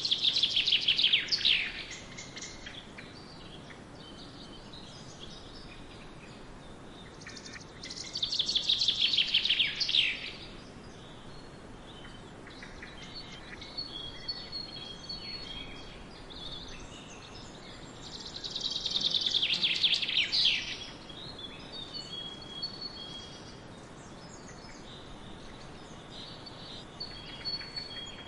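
Birdsong: one bird sings a loud, quick, falling trilled phrase about every ten seconds, three times, with other birds chirping softly in between.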